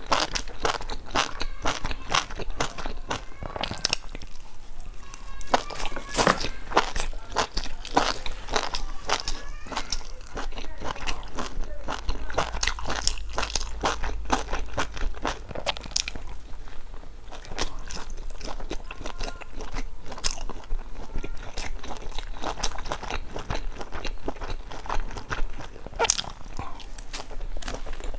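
A person biting and chewing grilled skewered food close up: crisp crunches and wet chewing clicks, irregular and continuous.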